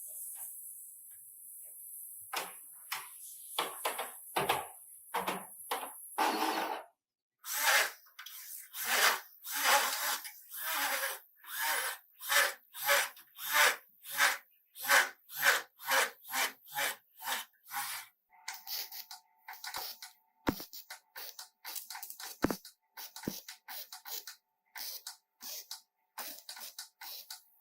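Rhythmic abrasive rubbing strokes, as of hand sanding or filing on the car body: irregular at first, then steady at about two strokes a second, turning quicker and quieter about two-thirds of the way through over a faint steady tone, with a couple of sharp clicks.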